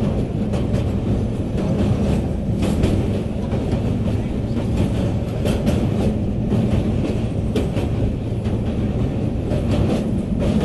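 Passenger train crossing a railway bridge, heard from on board: a steady, heavy rumble of wheels on the rails with irregular sharp clacks.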